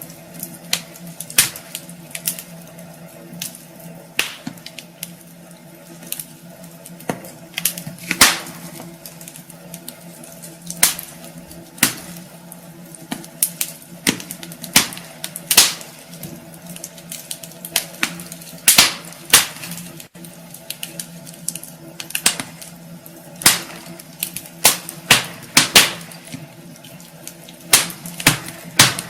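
Wood fire crackling in a fireplace: irregular sharp pops and snaps of burning logs, uneven in spacing and strength, over a faint steady hum.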